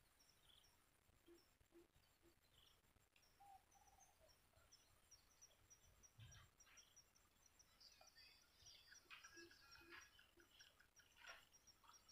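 Near silence with faint bird calls: small high chirps repeating throughout, and a low three-note call twice. The chirping gets busier in the last few seconds.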